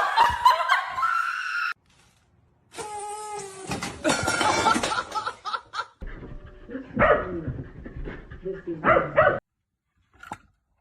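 A dog barking and yipping in several short stretches, each cut off suddenly.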